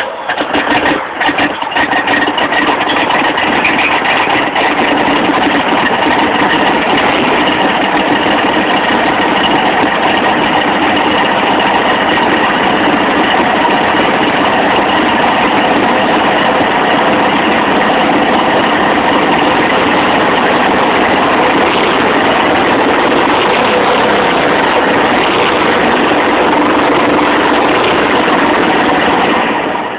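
Chevrolet 350 small-block V8, freshly swapped in, running at a steady idle through a custom-built exhaust on its first startup, with a slight unevenness in the first couple of seconds.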